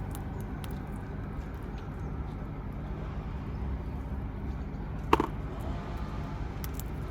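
Steady low outdoor rumble with scattered faint clicks, and one short, loud sound about five seconds in.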